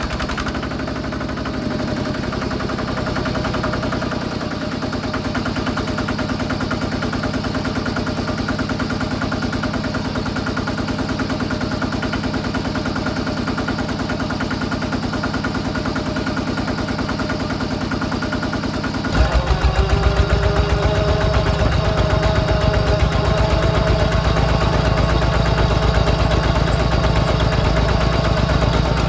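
Yanmar diesel engine of a homemade mini tractor running steadily with a fast, even chug. About two-thirds of the way through the sound suddenly gets louder and heavier.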